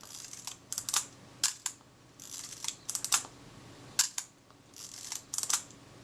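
Kodak Retina IIIc's film-advance and shutter-release mechanism worked by hand: clusters of small sharp mechanical clicks with a few short rasping strokes. The advance and release are being tried to check that the film advance now releases before the shutter fires.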